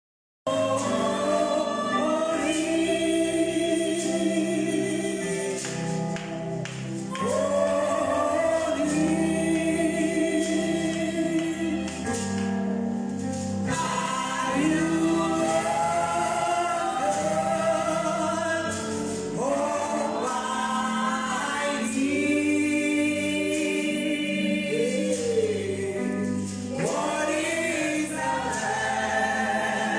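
Gospel choir singing, with long held notes in phrases of a few seconds, over a steady instrumental backing.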